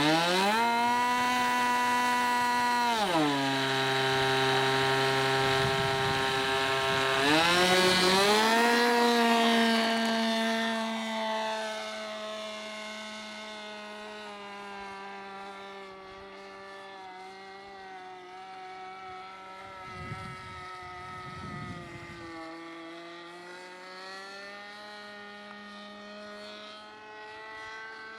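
RC model airplane engine running at high revs, dropping to idle about three seconds in, then revving back up about eight seconds in and held high. After that it gets steadily fainter, its pitch wavering slightly.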